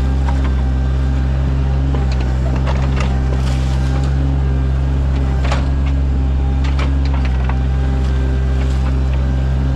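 Sany mini excavator's diesel engine running steadily while digging, with scattered clicks and knocks from the machine at work.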